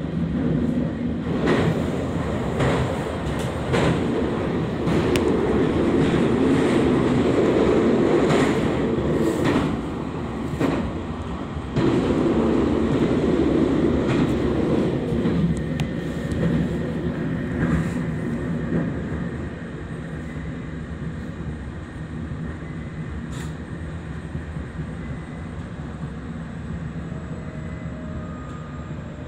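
Local train heard from inside the front car while crossing a steel truss bridge: a loud running rumble with repeated sharp rail clacks. After about two thirds of the way it eases to a quieter, steady running noise on plain track.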